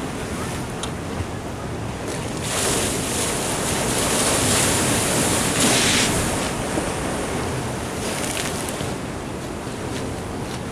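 Ocean surf washing in, with one wave swelling about two and a half seconds in and falling away after about six seconds, and wind buffeting the microphone.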